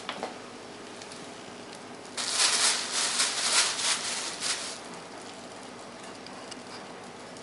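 Plastic carrier bags crinkling and rustling as a cat moves about in them: a loud burst of crackling about two seconds in that lasts a couple of seconds, then only faint rustles.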